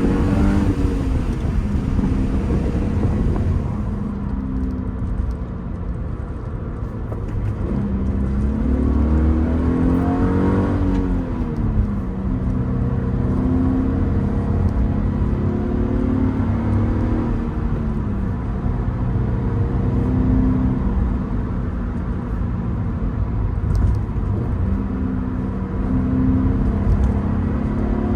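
Second-generation Subaru BRZ's FA24 2.4-litre flat-four engine driving through the gears. The engine note climbs and falls, with a long rise and drop about ten seconds in and several sudden jumps in pitch as gears change, including throttle blips to match revs on downshifts.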